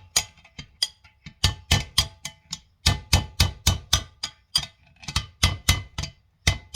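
Runs of quick hammer blows on a drift, about three or four a second with short pauses between runs, each strike ringing briefly. The blows are driving a stuck ring out of a Mahindra 5010 tractor's front final drive housing, and the ring is starting to move.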